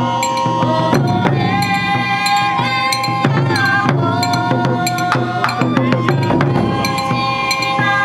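Japanese taiko drum ensemble performing: sharp drum strikes and wooden clacks over a sustained melodic line of held notes.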